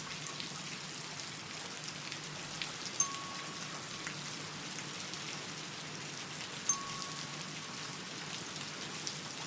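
Steady soft hiss of falling or running water from a nature-sound background, with a couple of brief drip-like clicks about three seconds and about seven seconds in.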